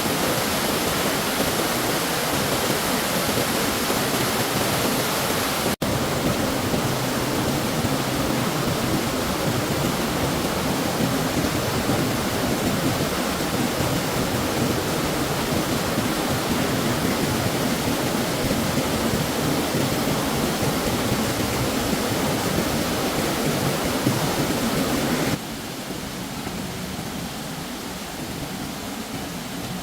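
Steady rushing of stream water. It drops out for an instant about six seconds in, and becomes quieter near the end.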